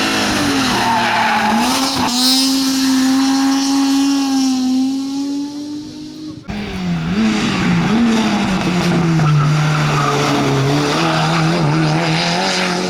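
Rally car engines at high revs on a hill climb, one holding and slowly rising in pitch, with tyres squealing. About halfway the sound changes abruptly to a second car whose engine note wavers, then settles at a lower pitch.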